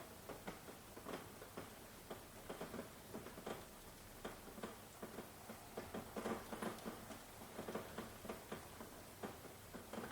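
Rain falling in irregular drips and taps, several a second, over a faint steady hiss.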